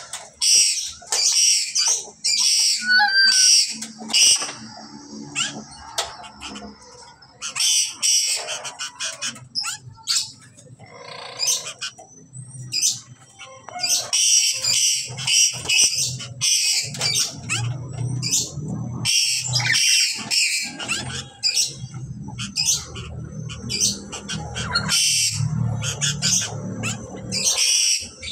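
Black-capped lories screeching: loud, harsh calls in runs of several, returning every few seconds with short pauses between.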